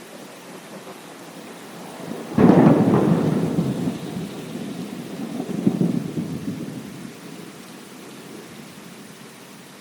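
Steady rain with a thunderclap: a sharp crack a little over two seconds in, followed by rolling rumble that swells again and fades away.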